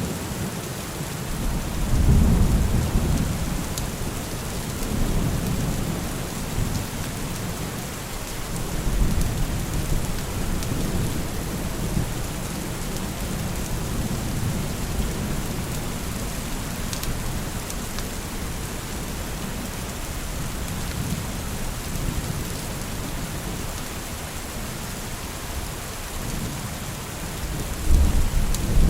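Steady heavy rain with low rolling thunder rumbles that swell about two seconds in, again around nine seconds, and near the end.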